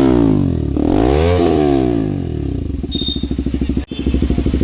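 KTM RC 200's single-cylinder engine through a full-system aftermarket exhaust with the dB killer removed. The revs fall away, it gets one more blip that rises and falls about a second in, then it settles to a pulsing idle.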